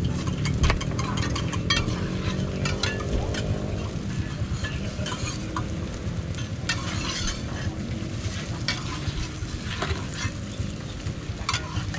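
Roti frying on a hot griddle, sizzling, with scattered clicks and scrapes of a metal spatula on the pan over a steady low rumble.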